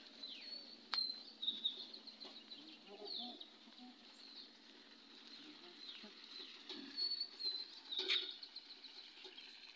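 Small birds chirping, with short high calls scattered throughout. Two sharp clicks, one about a second in and one near the end.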